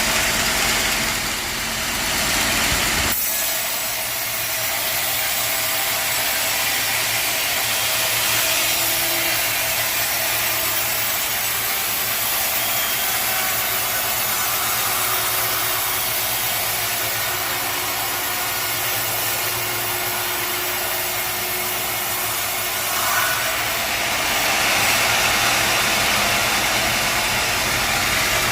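Sawmill machinery running with a steady engine and saw noise; the deep rumble drops away about three seconds in.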